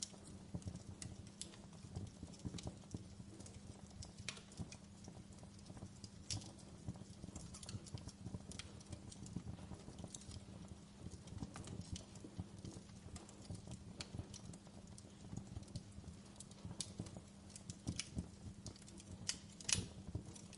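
Fire in a fireplace crackling, with irregular snaps and pops over a low steady background; the sharpest pop comes near the end.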